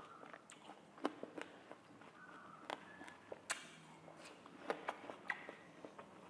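Fresh watermelon chunks being bitten and chewed: irregular crisp, wet crunches and mouth clicks.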